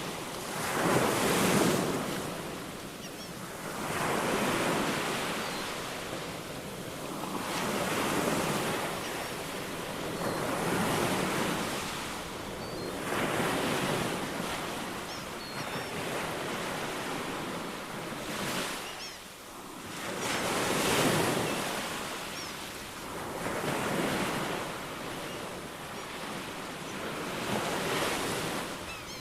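Ocean waves breaking and washing on a shore, swelling and fading in surges every two to three seconds, with a few faint high bird chirps.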